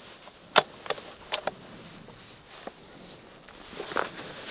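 Sharp clicks and rustling of a person moving in outdoor clothing and gear. A quick run of clicks comes between about half a second and a second and a half in, and a louder rustle about four seconds in.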